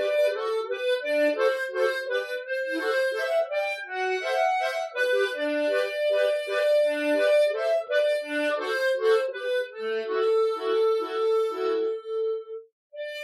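Solo harmonica playing a slow ballad melody over an accompaniment of short, rhythmically repeated broken chords and bass notes. Near the end one note is held and pulsed, then there is a short break before the playing goes on.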